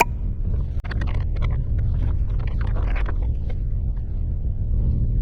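Anchor being hauled in by hand on a small sailboat: a sharp click, then a run of short clinks and rattles about one to three and a half seconds in, over a steady low rumble.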